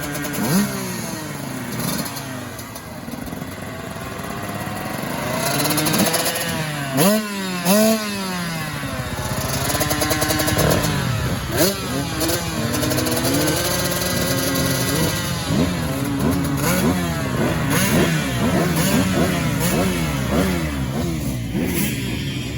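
Motocross bike engines revving up and dropping back again and again as they accelerate and shift gears, with two sharp rev peaks about seven and eight seconds in.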